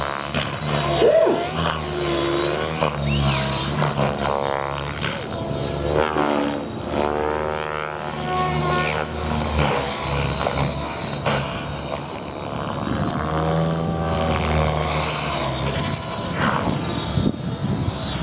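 Radio-controlled 3D helicopter flying aerobatics, its motor and rotor pitch rising and falling again and again through the manoeuvres.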